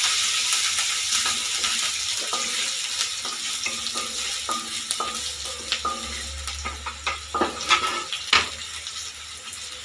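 Chopped garlic, ginger and green chilli sizzling in hot oil in a stainless steel kadai, stirred with a wooden spatula that scrapes and knocks against the pan. The sizzle slowly dies down, and the spatula's knocks are loudest a little before the end.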